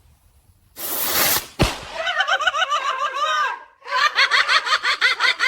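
A loud rushing whoosh and a sharp thud, then high-pitched laughter in quick, warbling bursts.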